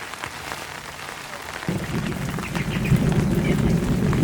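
Heavy rain falling, a steady crackling patter. About two seconds in, a loud low rumble sets in and keeps going.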